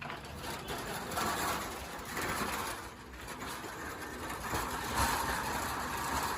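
Diesel engine of a JCB 3DX backhoe loader running while it works, a steady low drone with noise that swells and eases about every second.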